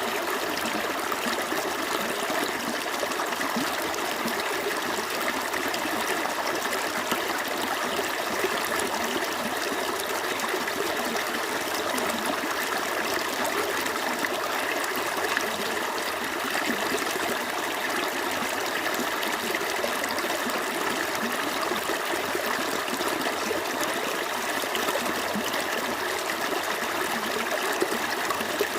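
Small stream running steadily over its bed: continuous babbling and trickling water.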